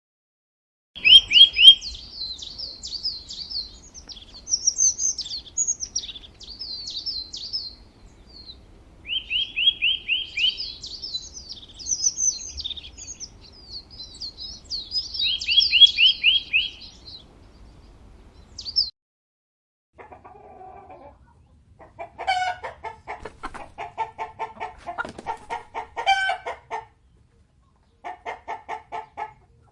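A small songbird singing for the first twenty seconds or so, in high, fast trills and warbles broken by short pauses; then a chicken clucking in a quick, steady run of clucks.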